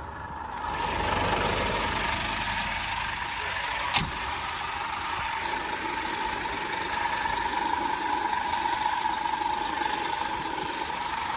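Scania P230 truck's diesel engine running steadily, growing louder about half a second in, with a steady whine over it and a single sharp click about four seconds in.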